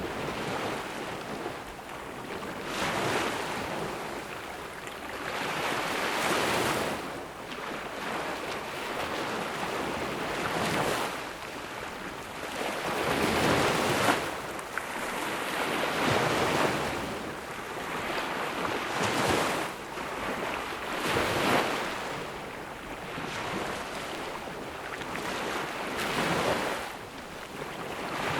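Ocean waves breaking and washing up a sandy beach, a hiss of surf that swells and fades every two to three seconds.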